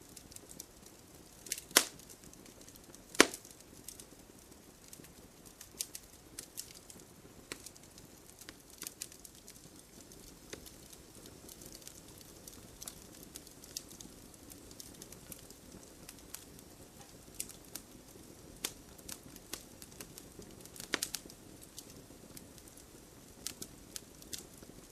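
Wood campfire crackling: scattered sharp pops and snaps over a soft steady hiss of burning, with two loud pops a second and a half apart near the start.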